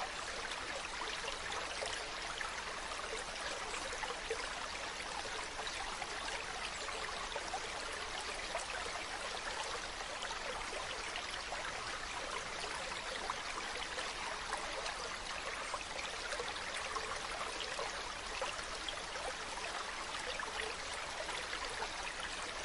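Mountain stream running over rocks: a steady rushing and babbling of water with fine splashy flicker.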